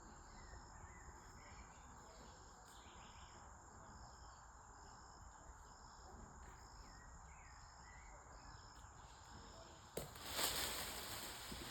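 Insects chirping in a regular, evenly spaced rhythm over a steady high insect hum. About ten seconds in, a sudden loud noisy burst cuts in and fades.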